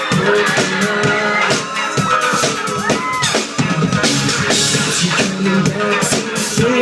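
Live pop band music with a drum kit beat.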